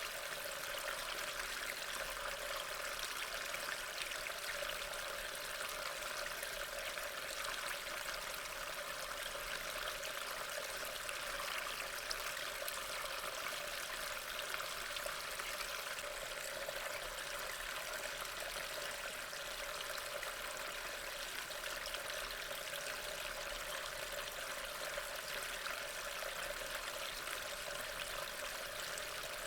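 Steady rain falling, a continuous even hiss that does not change.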